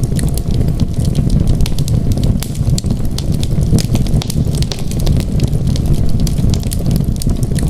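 Fireplace fire crackling: many quick, sharp pops over a steady low rumble.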